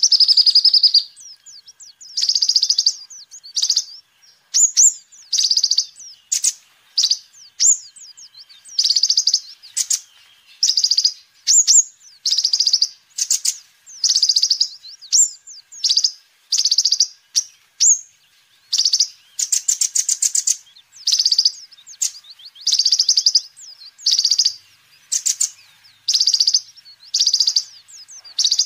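Sunbird (kolibri ninja) singing loudly: short, very high-pitched trilled phrases about once a second, with thin sweeping whistles between them.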